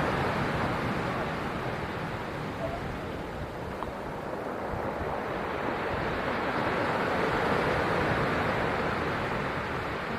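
Stormy Black Sea surf breaking on the shore, a steady rush of water that eases and then swells again about two-thirds of the way through.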